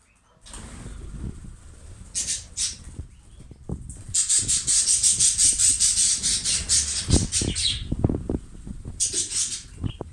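Budgerigars chattering in a fast, high twitter, loudest through the middle, with a few low knocks about two-thirds of the way in.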